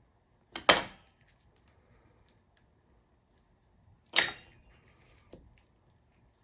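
Pipe cutter snapping through chicken thigh knuckle bone: two sharp cracks about three and a half seconds apart, the first a quick double, with a faint click after the second.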